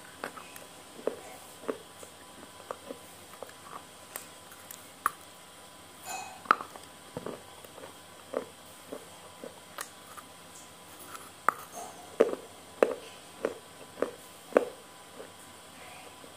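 Close-miked mouth sounds of a person chewing noodles: irregular wet smacks and clicks, with a louder cluster about twelve to fifteen seconds in.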